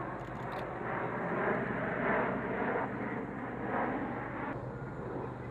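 Aircraft engine noise: a steady rushing that swells and eases, dropping off somewhat about four and a half seconds in.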